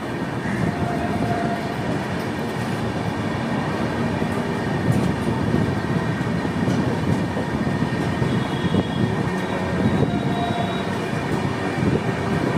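Sleeper-class coach of an Indian Railways express train getting under way: a steady rumble of wheels on the rails, heard from on board as the train pulls out from a stop.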